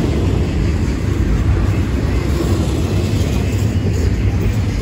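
Freight train rolling past with a steady, loud low rumble.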